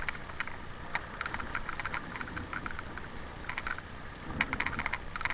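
Raft paddles dipping and pulling through river water in forward strokes, a scatter of short splashes and knocks.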